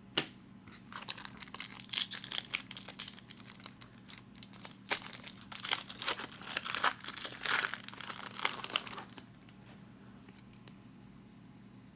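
Foil wrapper of an SP Authentic hockey card pack being torn open and crinkled, a run of irregular crackles that dies away about nine seconds in.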